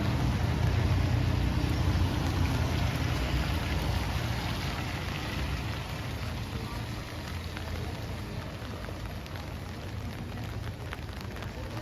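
Steady rain falling on a city street, with the low rumble of a passing vehicle fading away over the first half.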